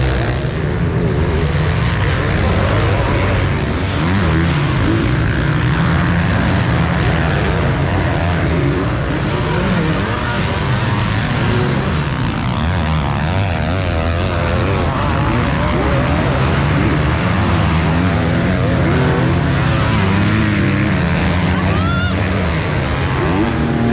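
Motocross bike engine running hard, its revs rising and falling again and again.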